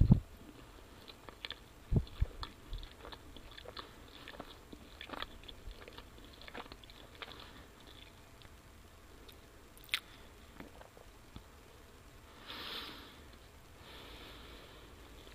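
A person chewing and biting pizza close to the microphone: irregular small mouth clicks and crunches, busiest in the first half, with a sharp click about ten seconds in and a short rustling burst a little later.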